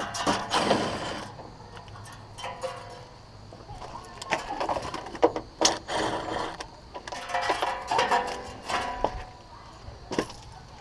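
Irregular knocks, clicks and metallic clatter, with a few short squeaky tones, as the sheet-metal housing of a pool heater is worked on with a screwdriver.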